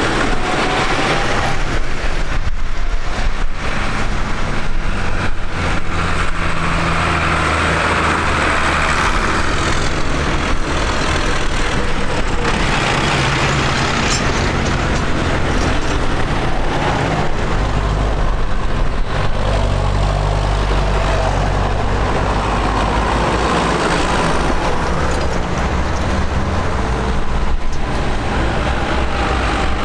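Tractor diesel engines running as tractors drive past one after another, their low engine notes shifting as each passes, over steady mechanical noise.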